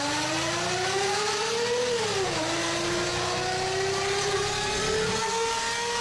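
Mercedes-Benz S600's V12 through an aftermarket exhaust, accelerating: a clean pitch rising, dropping at a gear change about two seconds in, then climbing again more slowly.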